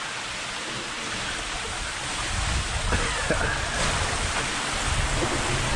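Water running through a brick culvert tunnel: a steady, even rushing hiss, with deeper sloshing joining in about two seconds in as people wade through shallow water.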